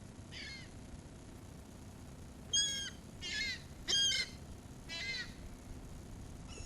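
Seagulls calling: five short, mewing calls over a few seconds, the loudest two about a third and two thirds of the way through.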